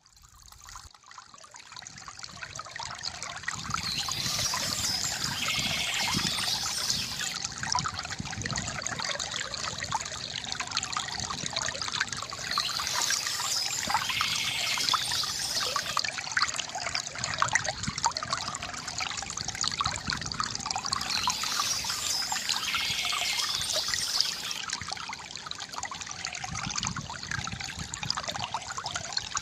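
River water gurgling and trickling over stones, a steady wash full of small splashes, fading in from near quiet over the first few seconds. Short bouts of high bird chirping come back about every eight or nine seconds.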